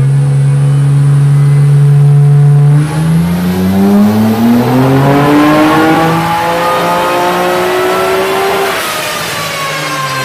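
Nissan Skyline R32 GT-R's twin-turbo RB26/30 straight-six on a dyno, held at steady revs for about three seconds, then pulling up through the rev range under full load in a long, steady rise. Near the end the throttle is lifted and the revs fall away.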